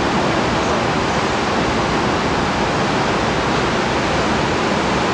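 Metro-North electric multiple-unit commuter train rolling in on the approach tracks: a steady, even rushing noise of wheels on rail.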